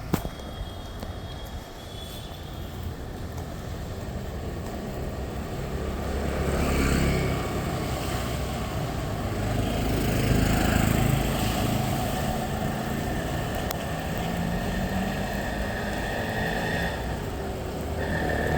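Street traffic: motor vehicles running past, the engine sound swelling twice as vehicles go by.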